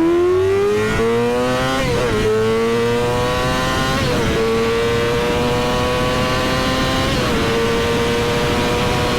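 Yamaha R6's inline-four engine pulling hard under acceleration. The pitch climbs in each gear and drops briefly at upshifts about two, four and seven seconds in.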